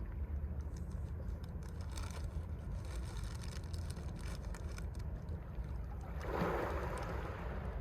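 Mediterranean sea waves washing onto the shore over a steady low rumble. Scattered crackling clicks come first, then a wave breaks about six seconds in.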